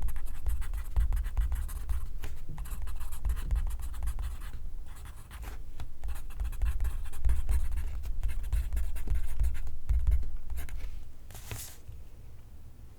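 Pencil writing on paper: runs of scratchy strokes broken by short pauses, with a low rumble underneath. The writing thins out near the end.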